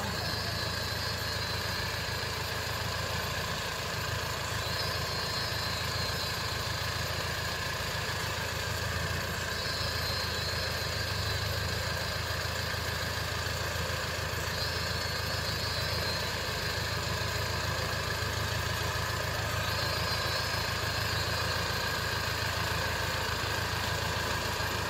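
Toyota Land Cruiser hardtop's engine idling steadily at low revs, with no revving, as the 4x4 waits at the top of a steep muddy descent.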